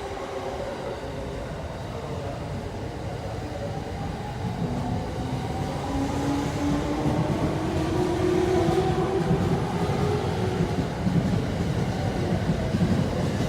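E231 series 0 electric train pulling away and accelerating. Its traction motor whine rises steadily in pitch from about four seconds in, while the running rumble grows louder.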